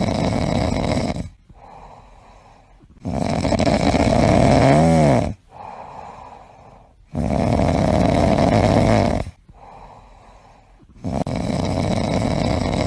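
Loud snoring: four long, rough snores, each lasting about two seconds, with quiet gaps of about two seconds between them. Near the end of the second snore there is a brief squeaky rise and fall in pitch.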